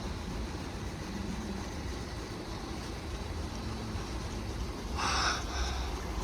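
Low steady rumble of an approaching train, with a short burst of hissing noise about five seconds in.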